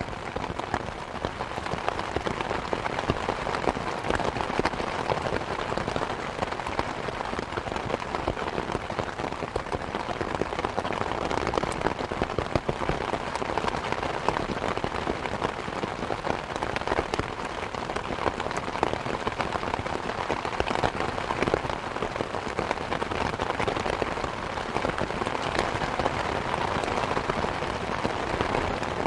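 Steady rain with many small ticks and drops, mixed with the crackle of a log fire in a fireplace.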